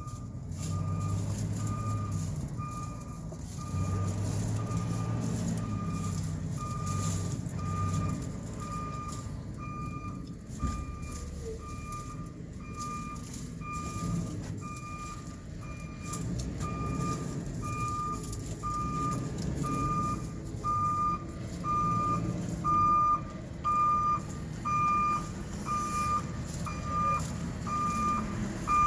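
Garbage truck's backup alarm beeping in a steady repeating pattern, a little faster than once a second, over the truck's engine running. The beeps grow louder in the second half.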